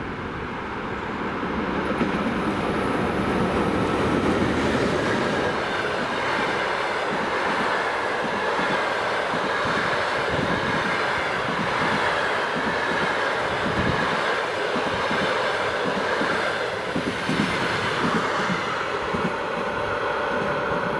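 Passenger train hauled by an EP1M electric locomotive passing close by, its wheels rolling loudly on the rails with a clatter over the rail joints. The sound swells over the first couple of seconds, then holds steady.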